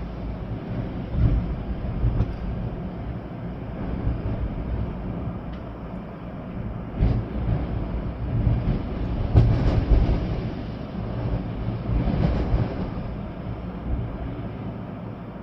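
Storm-force wind gusting with a deep rumble and rain, surging in strong gusts about seven seconds in, again near ten seconds and around twelve seconds, then easing.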